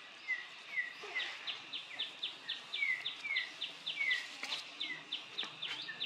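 A songbird calling in a rapid run of short, sharp chirps, about four or five a second, with short down-slurred whistled notes mixed in every half second or so.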